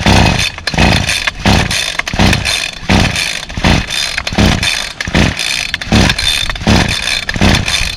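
2004 Ryobi CS30 string trimmer's 30cc two-stroke engine being pull-started: rapid repeated yanks of the recoil starter, about two a second, each turning the engine over without it catching. Its primer bulb is not priming.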